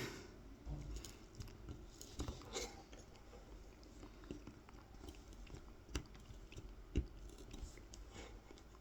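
Kolrosing knife cutting fine lines into a carved wooden honey dipper: faint, irregular small crunching clicks as the blade bites through the wood fibres, with two sharper clicks about a second apart late on.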